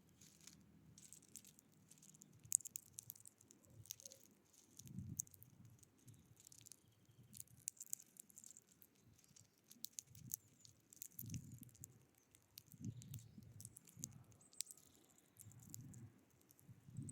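Small birds pecking and scrabbling at a feeder: faint, irregular light clicks and taps, with soft low rumbles every second or two.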